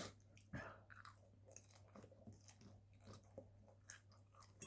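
Faint chewing of food: quiet mouth clicks scattered every half second or so, over a low steady hum.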